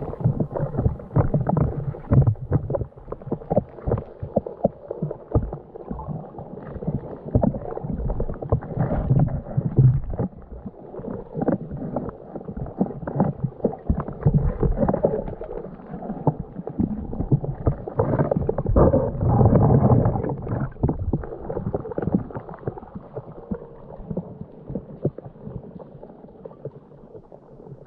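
Muffled water sloshing and gurgling around a camera dipped underwater, with irregular low knocks and rumbles, strongest a little past the middle and fading near the end.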